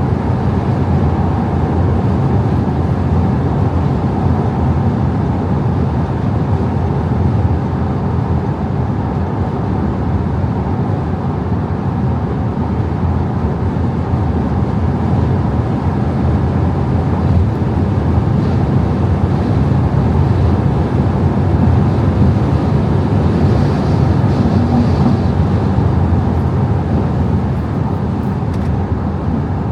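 Audi A5 50 TDI driving at speed: the 3.0 V6 TDI diesel engine running with tyre and wind noise in a steady, unbroken drone.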